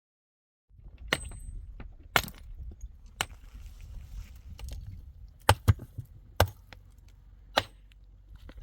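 A series of sharp knocks or strikes, about seven at irregular intervals, two of them in quick succession, over a low rumbling background.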